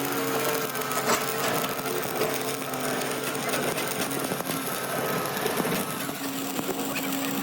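Workshop machinery running steadily: a held mechanical hum with dense rattling and scraping and scattered sharp clicks on top.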